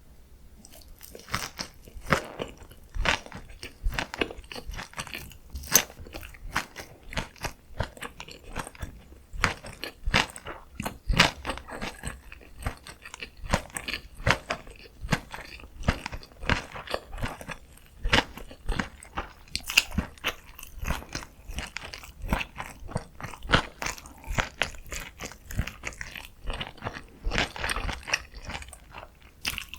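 Close-miked eating sounds: a steady run of chewing with crunchy bites and wet mouth clicks, several a second.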